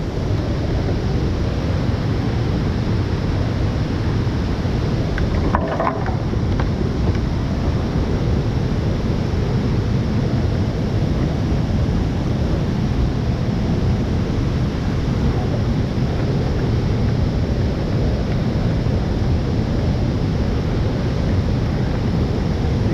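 Steady roar of rushing whitewater at a river waterfall, an even, unbroken rush.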